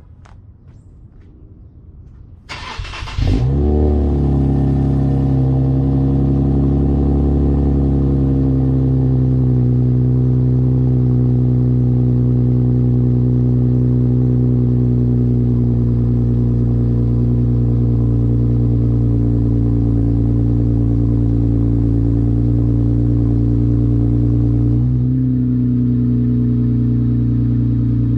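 Infiniti Q60's 3.0-litre twin-turbo V6, fitted with HKS resonated lower downpipes and an aFe cat-back exhaust, cranking and catching about three seconds in on a cold start, then running at a high cold idle that eases slightly; about 25 seconds in the idle steps down a little.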